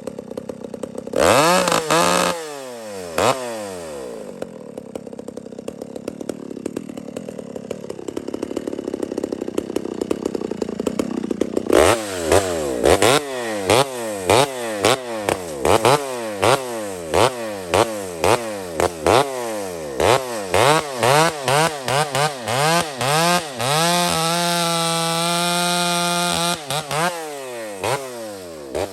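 Two-stroke chainsaw running, idling for a while and then revved again and again in quick throttle blips, held at high revs for a couple of seconds near the end before dropping back.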